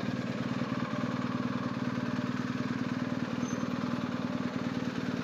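BMW R1250GS flat-twin motorcycle engine idling steadily, with an even, rapid pulse.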